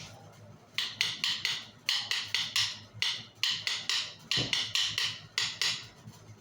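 Wooden sticks clacking together in quick runs of two to five sharp clacks, with one deeper knock about two-thirds of the way through.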